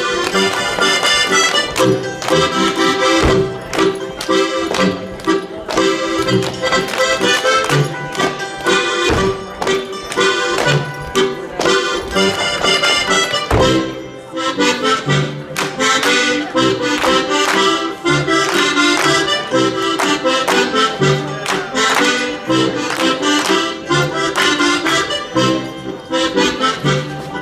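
Accordion playing a lively Bavarian folk dance tune, with the sharp hand slaps, claps and stomps of Schuhplattler dancers striking over the music, most densely in the second half.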